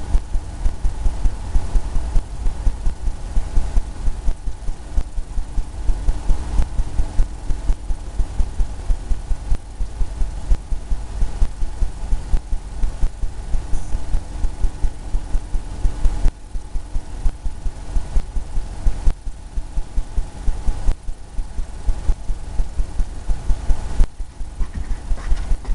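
Paintbrush dabbing against a canvas: a fast, steady run of dull thumps, about four a second.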